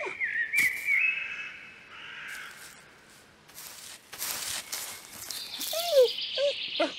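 Birds chirping and calling, with a few short noisy strokes in between and a high, steady call in the last couple of seconds.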